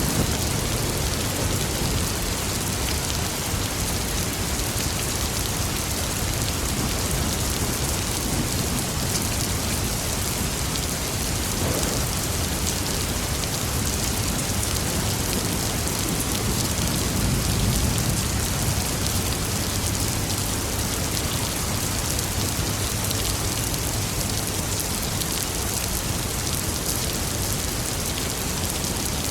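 Steady rain falling, an even hiss of drops on surfaces, with a low rumble of thunder swelling about two-thirds of the way through.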